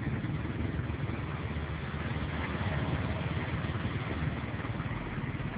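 Single-cylinder four-stroke engine of a Honda Biz-based tricycle running steadily, with a fast, even putter.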